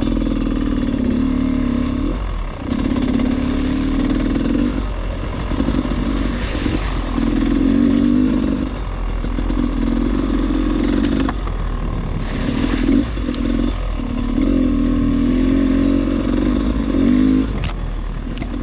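Dirt bike engine ridden on a trail, the throttle opened and closed in repeated bursts every second or two, with clattering from the bike over rough ground.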